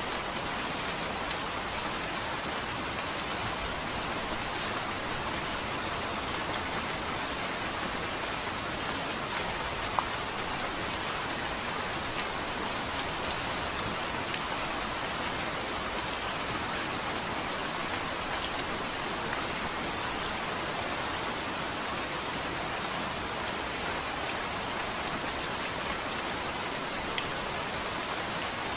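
Steady rain falling on a surface, an even hiss with scattered individual drop ticks, one a little louder about ten seconds in.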